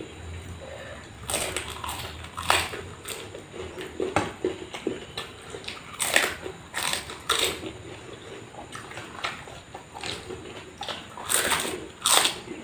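Close-miked eating: a person biting and chewing food, with a string of sharp crunches and wet mouth clicks. The loudest crunches come about a second and a half in, around six to seven and a half seconds, and twice near the end.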